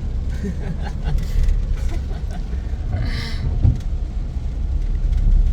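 Steady low road and engine rumble inside a moving pickup truck's cab, with a brief hiss about three seconds in.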